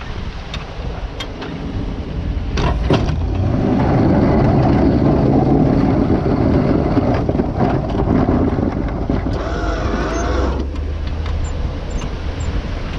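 A motor vehicle's engine running, with scattered knocks and rattles, growing louder and rougher for several seconds in the middle before easing off.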